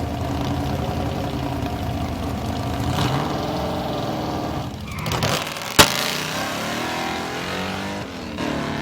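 Vintage drag car engine running steadily, its pitch dropping briefly about five seconds in, with a single sharp crack just before six seconds that is the loudest sound.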